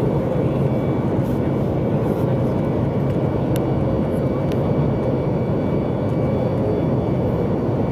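Steady rushing rumble of a Boeing 737 MAX 8 heard inside the passenger cabin: engine and airflow noise that does not change, with a couple of faint ticks in the middle.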